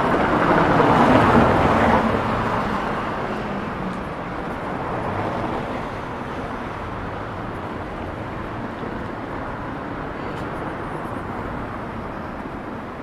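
A road vehicle passes close by, loudest about a second in, then fades into steady city traffic noise.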